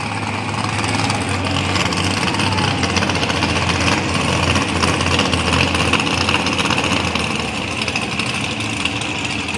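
Mud-bog vehicle's engine running steadily at low revs, with no revving.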